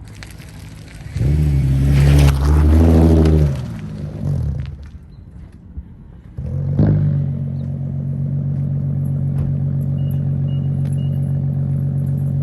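Infiniti M35h's 3.5-litre V6, exhaust with the resonator deleted, giving a loud rev that dies away. The engine then goes quiet, fires back up about six seconds in, and settles into a steady idle.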